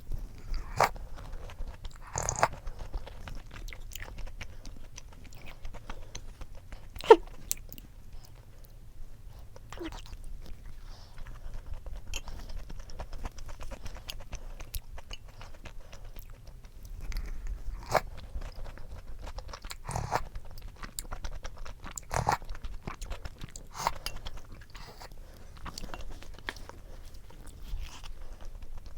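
Close-miked eating sounds: chewing with scattered crisp crunches and bites, one sharp crunch about seven seconds in.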